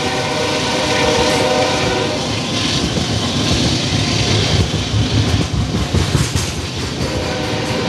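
Freight train of refrigerated boxcars rolling past at speed: a heavy low rumble with wheels clacking over the rail joints and uneven knocks in the middle. A steady multi-note tone sounds over the first two seconds and comes back near the end.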